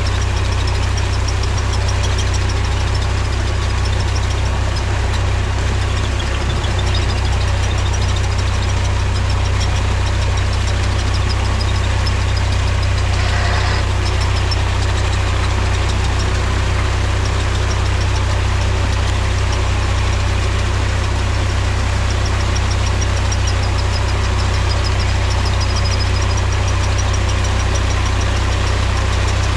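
Mahindra tractor's diesel engine running steadily with a deep, even low drone.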